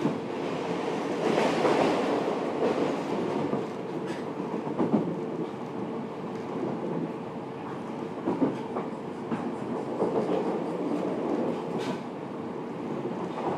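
Running sound of a Fukuoka City Subway 1000N series electric train, heard from inside the passenger car while under way. A steady rolling rumble with a faint steady hum, and the wheels clack over rail joints a few times.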